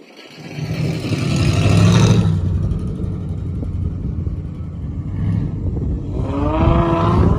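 A car engine revving hard under load, loudest about two seconds in with a hiss of tyre noise, then holding a steady drone. Near the end a wavering tone rises and falls.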